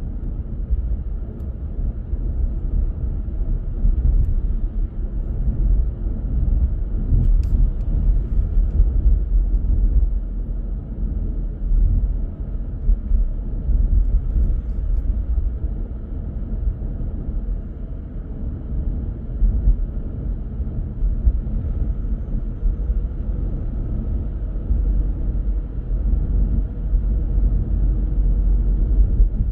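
A car driving along the road: a steady low rumble of road noise and engine.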